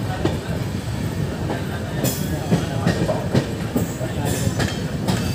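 Express train coaches running along the track, heard from an open coach doorway: a steady rumble of wheels and running gear with irregular sharp clicks and knocks, more of them from about two seconds in.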